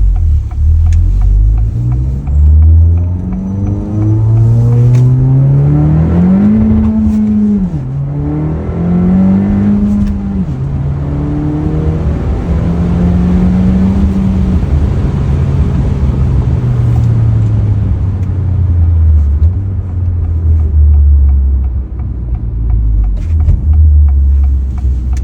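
A 2023 Acura Integra's turbocharged four-cylinder through an MBRP aftermarket exhaust, heard from inside the cabin, revving up through the gears. The pitch climbs for several seconds, drops sharply at an upshift about eight seconds in, climbs and drops again at another shift a couple of seconds later, then holds steady before falling away to a low drone as the car slows.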